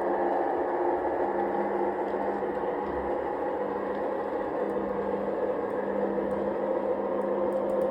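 LGB G-scale model locomotive running slowly while shunting: a steady electric motor and gear hum, with a few light clicks near the end.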